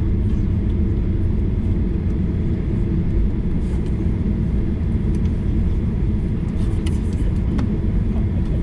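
Steady low rumble of a Boeing 737-800's engines and airframe heard inside the passenger cabin, with a few faint clicks near the end.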